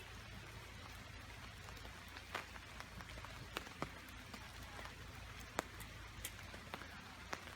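Steady rain hiss with single drops striking close by as irregular sharp ticks.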